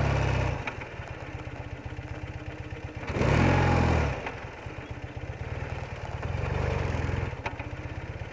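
BMW R80RT's air-cooled flat-twin engine idling with a steady low beat. It picks up in revs briefly as the bike pulls away, strongest about three seconds in and more gently near seven seconds.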